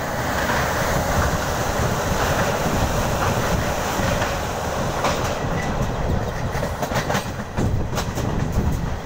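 Passenger train running at speed, heard from the moving carriage: a steady rush of wheel and air noise. From about halfway through come sharp clicks of the wheels over rail joints.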